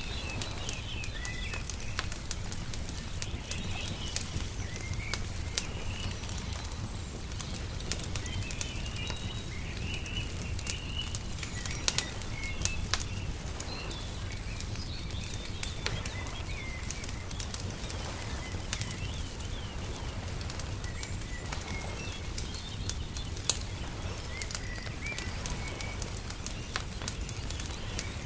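Ambience of small birds chirping and twittering in quick short calls over a wood fire crackling with scattered sharp pops. A low steady rumble runs underneath.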